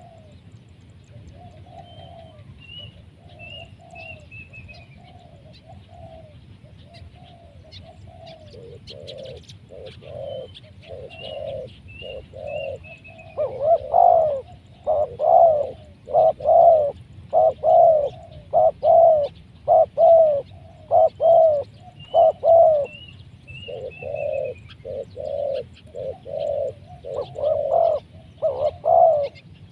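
Spotted doves cooing in repeated rhythmic phrases. The cooing is soft at first and grows much louder about halfway through.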